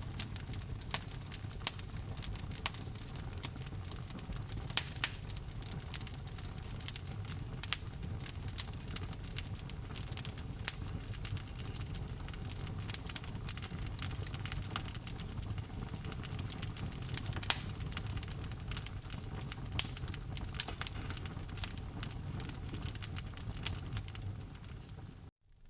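Wood fire burning in a fireplace: irregular sharp crackles and pops from the burning log over a steady low rumble of flame. The sound cuts out for a moment near the end.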